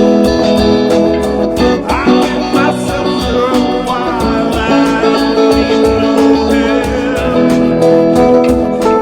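Band music led by guitar, with sustained chords over a steady beat.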